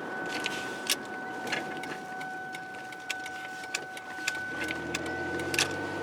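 Car cabin while driving: steady engine and road noise with a thin steady whine, and scattered irregular clicks and rattles. A low engine hum comes up about four and a half seconds in.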